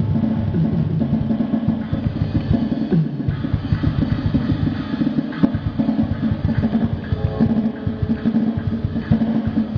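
Drum kit played through an Alesis DM5 electronic drum module: a dense, fast run of strokes with bass drum and snare, with no break.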